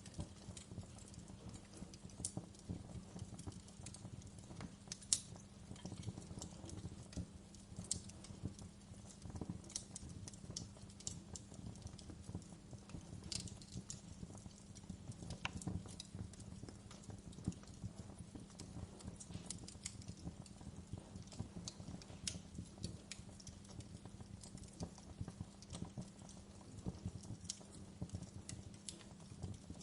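Wood fire crackling: frequent irregular sharp pops and snaps of burning logs over a steady low rumble of the flames, with a louder pop about five seconds in.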